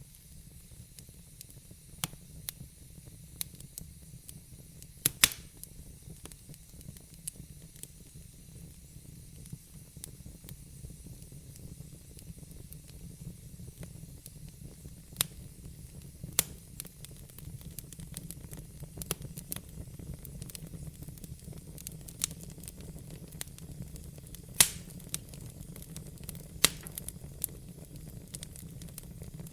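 Wood fire burning in a fireplace: sparse sharp crackles and pops over a low steady rumble, the loudest pops a few seconds in and again late on.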